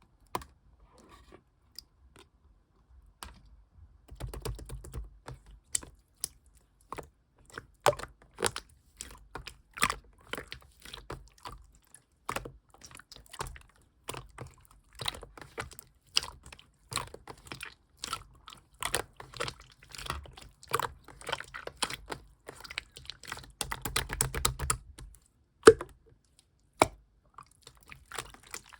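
Clear slime squished, pressed and stretched by hand, giving irregular sticky clicks and small pops. The handling gets busier around four seconds in and again near the end.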